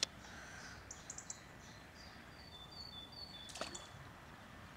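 A small bird sings faintly, repeating short high notes at two alternating pitches, over quiet outdoor background hiss. There is a light click at the start and a sharper knock about three and a half seconds in.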